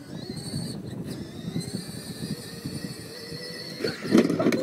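Battery-powered Power Wheels-style ride-on toy monster truck driving, its electric motor giving a steady high whine over the rumble of its plastic wheels on the ground. A loud thump comes near the end.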